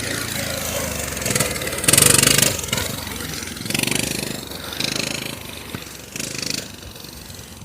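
Two-stroke mini bike engine revving in several bursts, the last near the end dropping away as the engine quietens.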